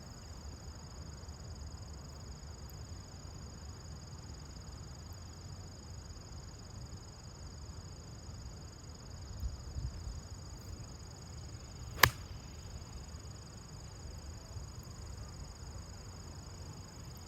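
Strong wind buffeting the microphone as a steady low rumble, with a single sharp crack of a golf club striking the ball about twelve seconds in.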